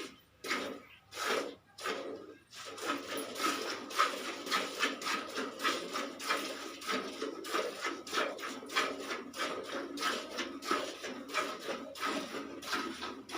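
Cow being milked by hand: jets of milk squirting into a pail in a quick rhythm, about three squirts a second, with a few short pauses near the start.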